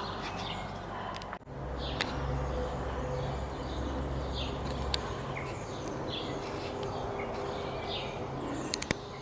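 Birds chirping, short high calls scattered throughout, over a steady low rumble.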